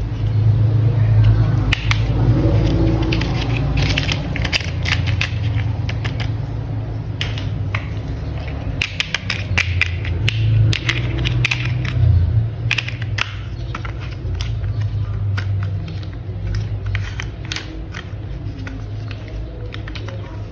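Plastic toy parts clicking and clattering as they are handled, over a steady low rumble.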